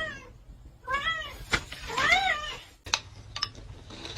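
A cat meowing three times about a second apart, each meow rising then falling in pitch, followed by a few light clicks.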